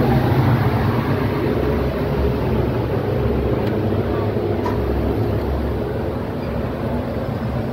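Indian Railways passenger train running close by: a steady low rumble with faint rattles and clicks.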